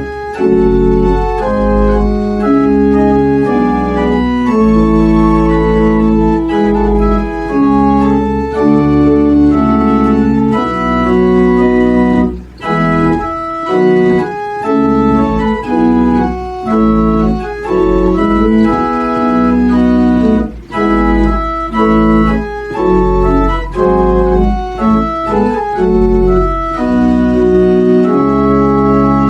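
Organ playing held chords over a steady deep bass, with two brief breaks between phrases.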